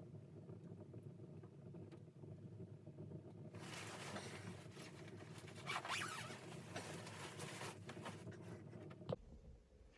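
A steady low rumble, joined about a third of the way in by a rough rustling, scraping noise that lasts about five seconds and is loudest around the middle. A sharp click comes near the end, after which the rumble gives way to a different, quieter background.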